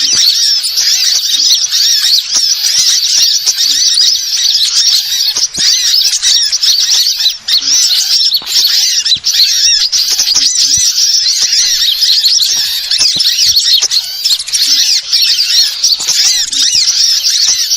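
Small songbirds chirping and twittering without pause, many quick high rising-and-falling notes overlapping like a chattering flock; a bird-lure call recording.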